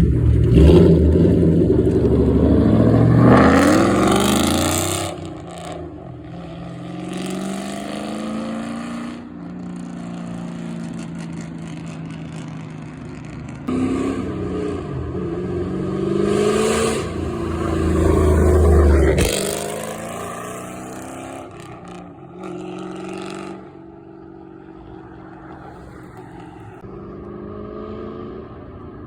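Straight-piped Ford Mustang GT 4.6-litre two-valve V8, with stock manifolds, an H-pipe and no mufflers, accelerating with a rising exhaust note. It eases to a quieter cruise, pulls hard again about midway, then drops back to a quieter steady run.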